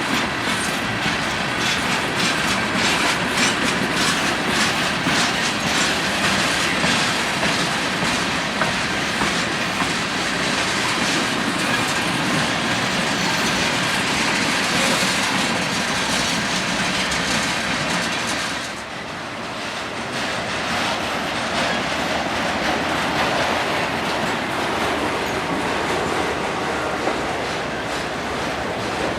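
Train cars rolling past, with the steady clickety-clack of wheels over rail joints. The sound dips briefly about two-thirds of the way through, then carries on.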